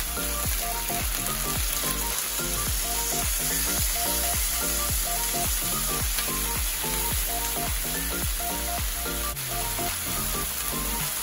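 Chicken breasts sizzling steadily in hot oil in a frying pan as they are turned over with tongs to brown the second side.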